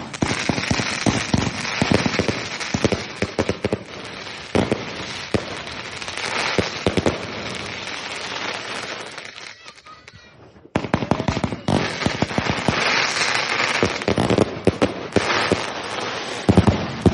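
Consumer fireworks compound cake firing rapid, dense volleys of shots with crackling. The shots thin out and pause about ten seconds in, then restart suddenly in another dense, loud barrage.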